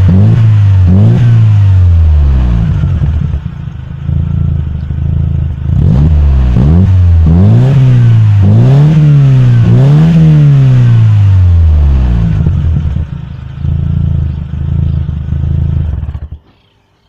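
Engine with a racing exhaust being revved loudly in repeated quick blips, rising and falling in pitch about once a second, with a couple of spells of steadier running between. It cuts off abruptly near the end.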